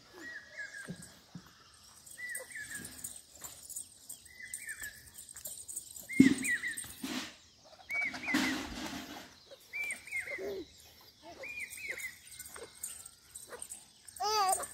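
A bird calling over and over, a short two-note call about every two seconds. A louder sudden noise comes about six seconds in, and a wavering cry just before the end.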